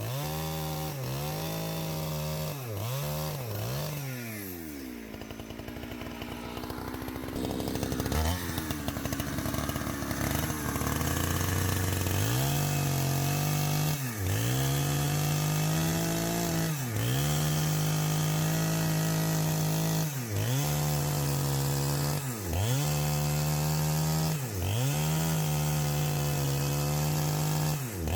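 Two-stroke chainsaw being worked on logs. Its throttle is blipped in quick revs at first, then it drops to a low idle for a few seconds. It runs at a lower, labouring note for a few seconds, as under load in the cut, then runs at high revs, with the throttle let off and opened again every two to three seconds.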